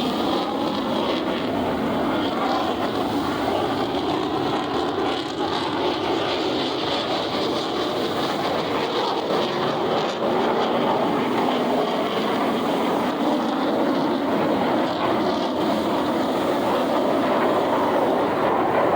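Steady roar of Blue Angels military jet aircraft engines, growing slightly louder toward the end.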